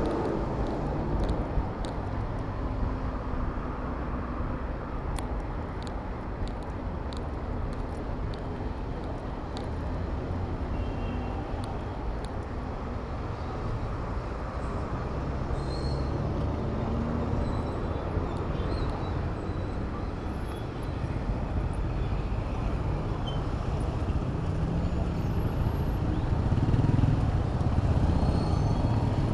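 City road traffic heard from a moving bicycle: motor vehicles running all around as a steady low rumble, growing louder in the last few seconds.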